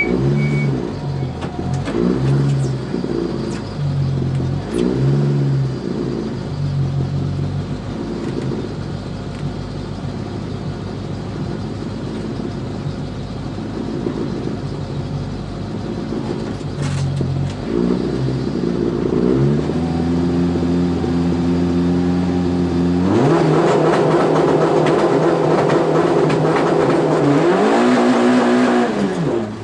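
Peugeot 205 rally car engine heard from inside the cabin: revved in short blips several times while waiting, then held at steady revs. About 23 s in it launches hard at full throttle, much louder, and the revs drop and climb again near the end as it shifts up a gear.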